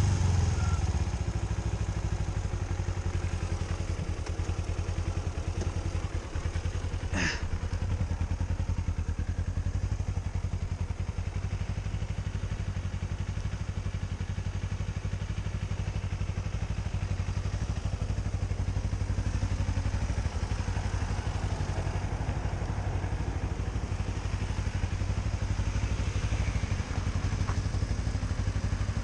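A vehicle engine running steadily with an even low hum, and one brief sharp sound about seven seconds in.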